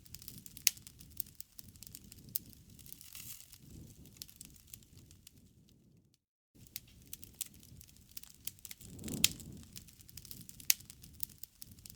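Bonfire crackling: scattered sharp pops and snaps of burning wood over a low rumble, cutting out to silence for a moment about six seconds in.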